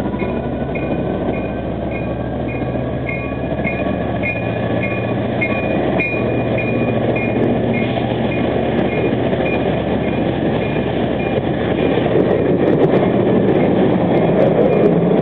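EMD F59PHI diesel passenger locomotive accelerating away from a station, its engine note rising at first. Then the passenger cars roll past with a growing rumble of wheels on rail and scattered clicks. A bell rings about three times a second through much of it.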